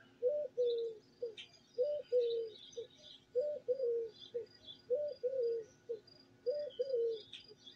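A dove cooing over and over in short phrases of a few low notes, one phrase about every second and a half, with faint chirps from small songbirds above it.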